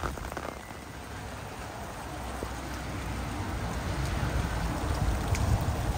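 Rain falling steadily on a wet cobbled street, with a low rumble that grows louder from about two seconds in.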